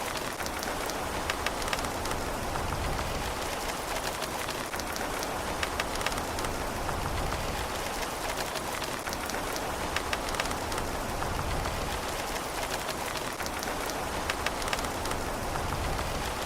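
Steady rain falling on a surface, a constant hiss with many small drop ticks and no thunder.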